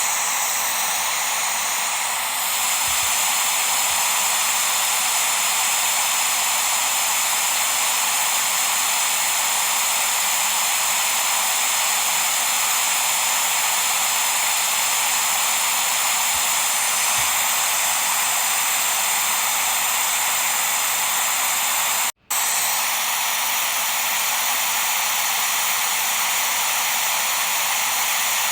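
Steady white-noise hiss, weighted toward the high end, for lulling a baby to sleep. It cuts out for a split second about 22 seconds in, then resumes unchanged.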